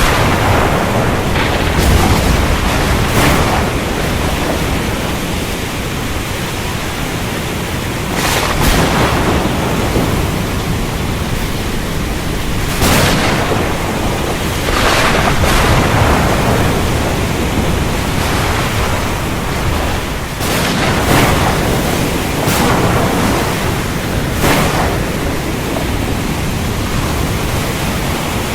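Heavy rain falling steadily, with sharp cracks of thunder every few seconds that each die away within about a second.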